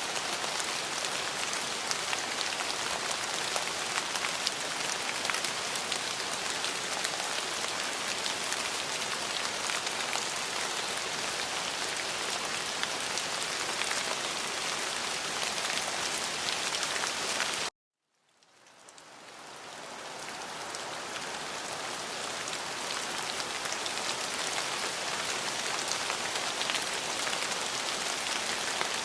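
Steady heavy rain, a dense hiss full of fine drop patter. About two-thirds of the way through it cuts off suddenly to silence, then fades back up to full strength over a few seconds.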